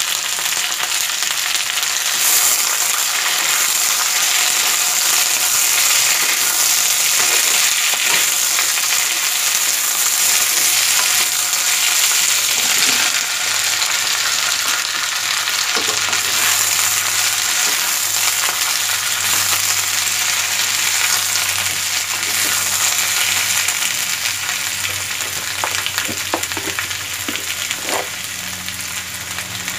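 Mixed vegetables (potato, flat beans, cauliflower stalks and pumpkin) sizzling in hot oil in a wok, a steady hiss, with a few light knocks of the wooden spatula stirring near the end.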